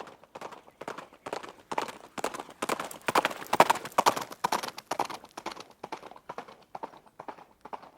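A running horse's hooves striking the ground in a quick, galloping rhythm of clustered hoofbeats. They grow louder toward the middle and fade again toward the end.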